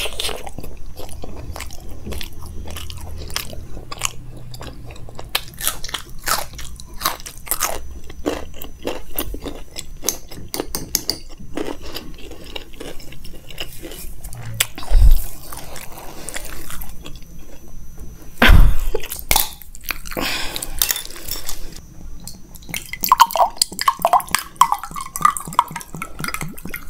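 Close-miked eating sounds: wet chewing and smacking of a mouthful of makki ki roti with sarson ka saag, full of small clicks. There are two loud thumps, about 15 and 18.5 seconds in. Near the end a drink is poured into a glass.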